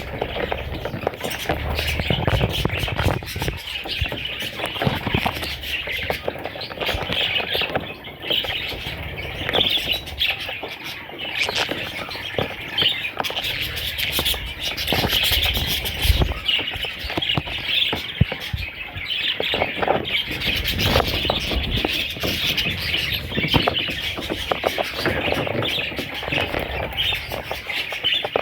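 A group of young budgerigars chirping and squawking continuously, with a few low thumps among the calls.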